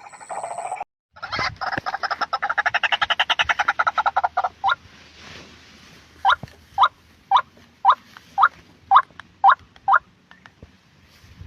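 White-breasted waterhen calling: a rapid chattering run of about ten notes a second, then eight loud, separate, downward-sliding notes about half a second apart.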